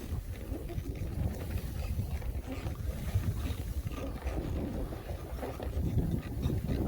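Snowstorm wind buffeting the microphone: a continuous low rumble that gusts up and down.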